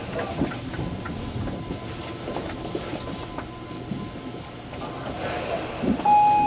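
Electric commuter train rolling slowly, heard from inside the driver's cab: a low rumble with scattered clicks of the wheels passing over rail joints and points. A steady tone comes in near the end.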